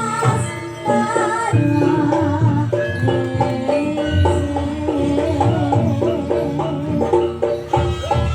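Live jaranan gamelan music: a wavering, vibrato lead melody over a steady beat of heavy low drum strokes and sustained pitched percussion.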